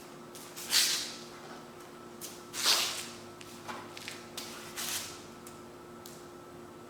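Three short swishes with a few light clicks between them: hands working with the oil bottle and filler while topping up a lawnmower engine's oil, over a faint steady hum.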